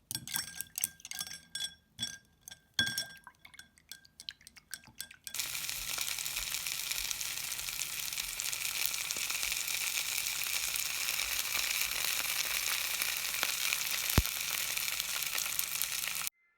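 A paintbrush clinking and stirring against a glass of rinse water for a few seconds, then a steady hiss that cuts off suddenly near the end.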